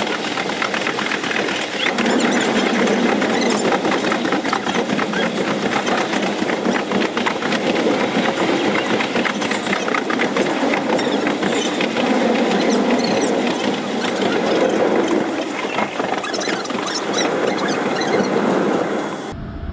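Narrow-gauge electric train running, heard from inside the car: a steady rumble of wheels on rail with rapid rattling clicks and a high squeal from the wheels.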